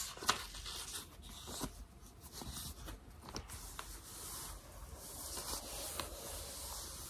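ASMR hand sounds: palms and fingers rubbing and brushing close to the microphone, a dry friction hiss that swells and fades in slow strokes, with a few soft clicks, the sharpest just after the start.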